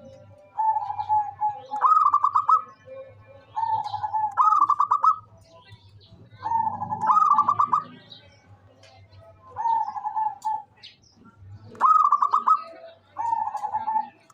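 Zebra dove (perkutut) cooing in repeated phrases, about one every two seconds: each is a lower held note followed by a fast, rattling run of higher notes. Faint high chirping sounds behind it.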